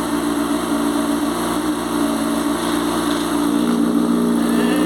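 Honda CBR600's inline-four engine idling steadily through a newly made aftermarket exhaust.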